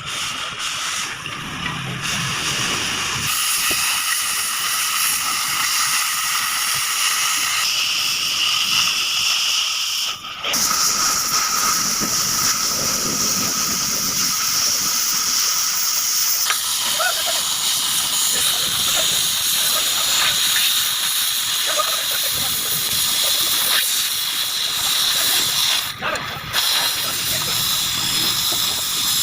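Oxy-fuel gas cutting torch hissing steadily as it cuts steel. The hiss breaks off briefly about ten seconds in and again near the end, and its tone shifts a few times in between.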